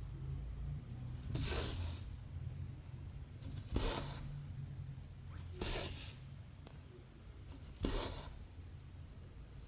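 Cotton embroidery thread drawn through 14-count cross-stitch fabric, a short rasping swish with each stitch, four times about two seconds apart, over a steady low hum.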